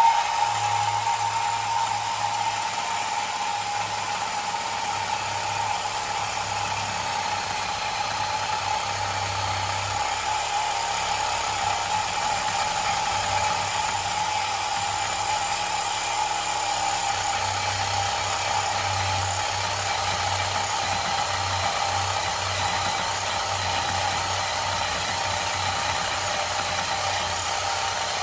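Cordless power saw with a metal-cutting blade running steadily, cutting through a truck's steel exhaust pipe to remove the muffler, with a constant motor whine.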